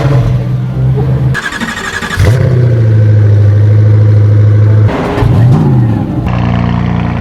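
Loud car exhaust in quick edited cuts, mostly a steady engine drone. A quieter stretch with a high whine comes in around the second mark, and the revs swing up and back down about five seconds in.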